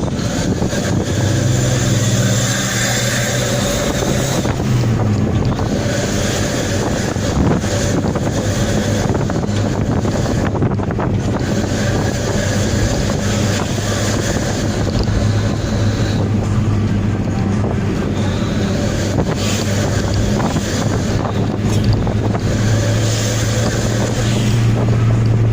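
Daihatsu Gran Max van's exhaust droning steadily as it drives, a low even hum that dips slightly in pitch about four to five seconds in, with wind buffeting the microphone.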